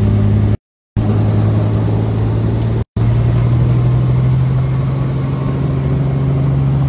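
Helicopter engine and rotor running with a loud, steady low drone heard from inside the cabin as it readies for takeoff. The sound cuts out briefly twice, and after the second gap the drone settles a little higher in pitch.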